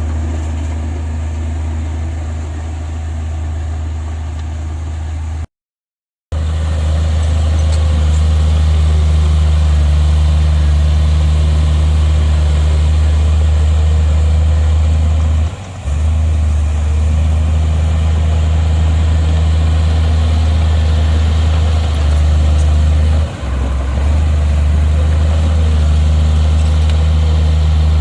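Heavy diesel earthmoving machinery running steadily under load with a deep, constant engine drone. The sound cuts out completely for under a second about six seconds in.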